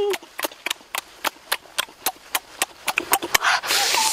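Exaggerated mouth sounds of someone eating a cooked pork rib: sharp, irregular lip smacks and chewing clicks, about four or five a second, with a breathy slurping stretch near the end.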